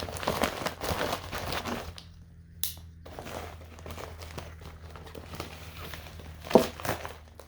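Plastic packaging crinkling and rustling as it is handled and unwrapped, with a short pause about two seconds in and a sharper crinkle near the end.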